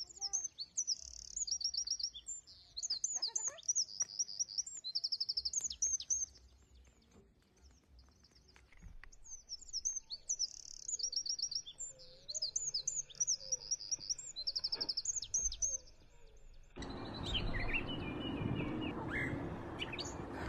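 Small birds singing: high chirps and quick trills in phrases, in two bursts with a short lull between. Near the end a steady rushing noise comes in underneath.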